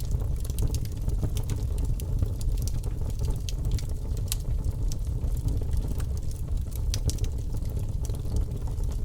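Wood fire burning in a fireplace: a steady low rumble of the flames with many small crackles and pops throughout. A few sharper pops stand out, one about four seconds in and a couple around seven seconds.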